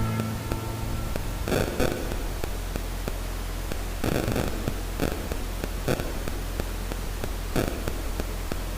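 Steady hiss and a low electrical hum from the recording microphone, with a few brief rustles, after the karaoke backing music has stopped.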